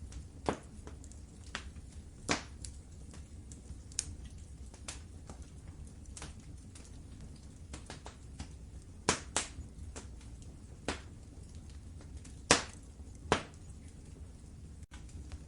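Wood fire crackling in a fireplace: irregular sharp pops and snaps over a steady low rumble of the flames, the loudest pop about twelve and a half seconds in.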